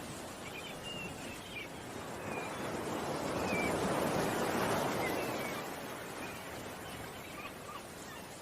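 Ocean waves washing in: the surf swells about three seconds in and fades again by about six seconds. Small birds chirp faintly and briefly throughout.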